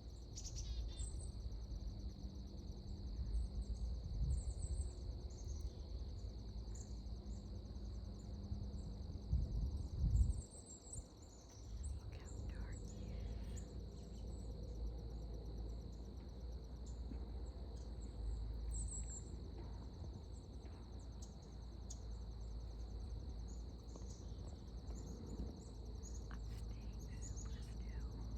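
Insects trilling in a steady outdoor chorus, with short bird chirps over it and a low rumbling noise underneath that swells briefly about ten seconds in.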